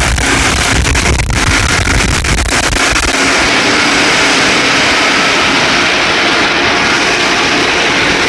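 Loud, steady rushing noise heard from inside a car. A low rumble with a few knocks runs under it for about the first three seconds and then stops, leaving an even hiss.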